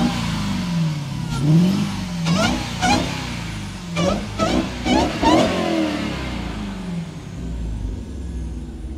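Muscle car's HEMI V8 being free-revved in a string of quick blips, the pitch climbing and dropping with each one. The blips come fastest between about four and five and a half seconds in, and the engine settles back toward idle near the end.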